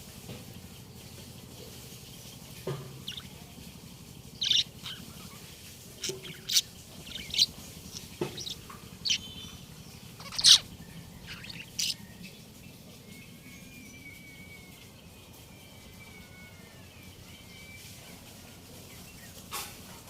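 Pet budgerigars chirping: a scatter of short, sharp calls, thickest between about four and twelve seconds in, then soft warbling chatter and one more call near the end.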